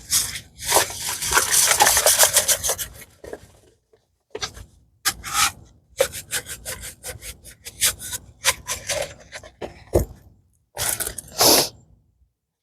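Rustling and scraping of a rolled diamond painting canvas being handled and unrolled: a dense stretch of rustle at first, then a string of separate scraping strokes with one sharp knock near the end.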